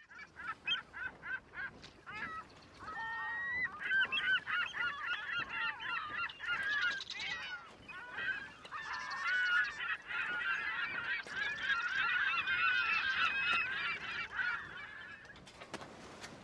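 A flock of birds calling. It starts with a quick run of short, evenly spaced calls, about four a second, then many calls overlap in a dense chorus that stops shortly before the end.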